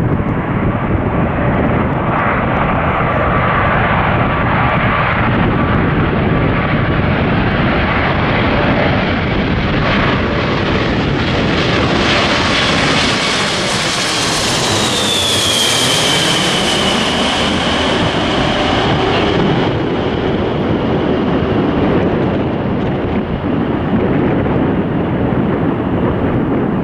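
Jet airliner passing close overhead: a broad engine rush that builds to its loudest just past halfway, with a high whine that slides down in pitch as the plane goes by.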